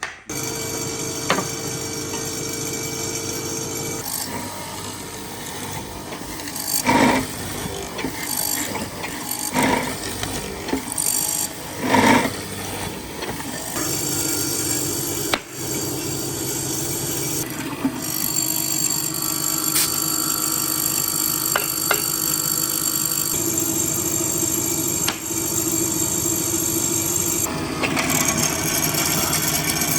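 Electric power tool running steadily against wood, with a high whine and a few louder surges as it bites in harder.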